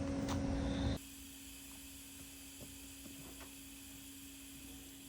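A steady hum with a few faint ticks. About a second in, a louder noisy background cuts off suddenly, leaving the hum.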